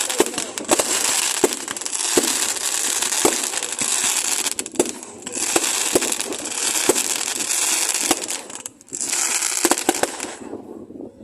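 Fireworks crackling: a dense, continuous crackle with many sharp pops scattered through it. It breaks off briefly twice, about five and nine seconds in, and dies away near the end.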